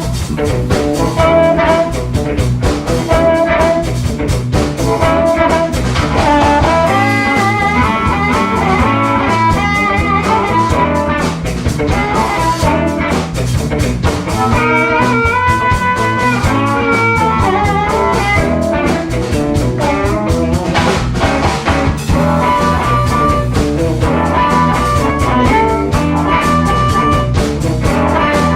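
Blues band playing a song live: drum kit and bass with guitar and a melodic lead line, in a steady groove.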